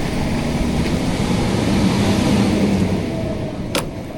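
Wind and road noise while riding a bike through traffic, with a truck's engine humming steadily nearby. The noise eases about three seconds in, and a single sharp click comes near the end.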